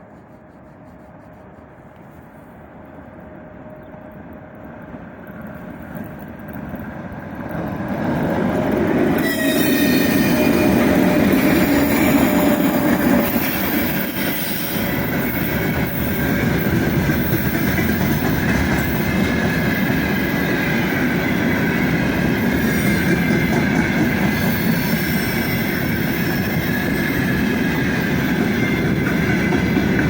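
3ES5K "Ermak" electric locomotive with a 73-car freight train approaching, growing steadily louder over the first eight seconds, then passing close with a loud rumble of wagons on the rails. High steady wheel squeal runs over the rumble.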